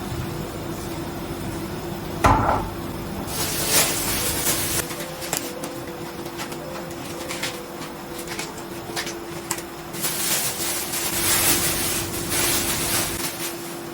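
Kitchen work sounds: a sharp knock about two seconds in, then scattered clicks and clatter of dishes and utensils, with stretches of hissing noise, over a steady low hum.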